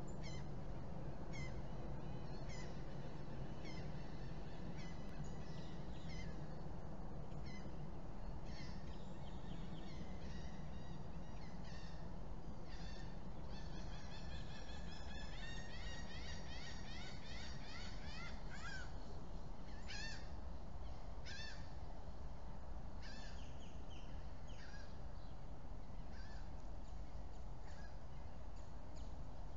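Birds chirping and calling over a steady low background rumble: single calls about once a second at first, then many overlapping calls for a few seconds in the middle, then spaced calls again.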